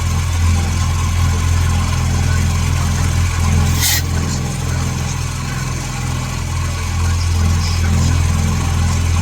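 A shop machine's motor running steadily with a low hum, with one short hiss about four seconds in.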